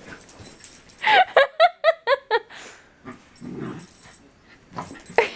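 Puppy giving a quick run of about seven short, high yips while chasing its own tail, worked up about not catching it.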